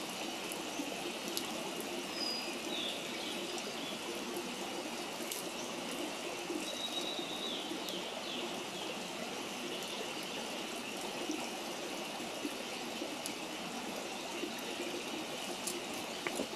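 Wood bonfire burning, with scattered sharp crackles and pops over a steady rushing background. A few short high bird chirps come about a second and a half in and again around seven seconds.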